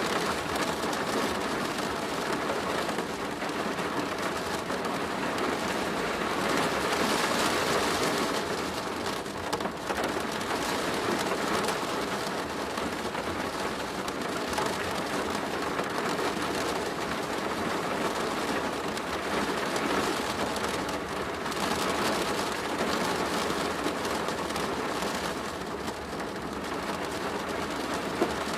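Steady rain falling on a plastic roof, a dense patter that swells and eases a little over time.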